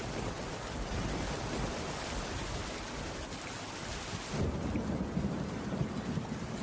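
Steady rainfall with a low rumble underneath. About four and a half seconds in, the high hiss of the rain dips and the rumble swells for the last two seconds.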